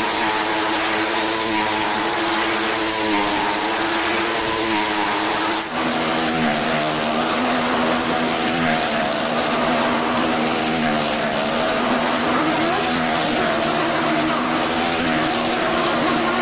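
A car engine and motorcycle engines running hard at steady high revs as they circle the vertical wooden wall of a well-of-death stunt cylinder, a continuous loud drone. The pitch drops abruptly about six seconds in.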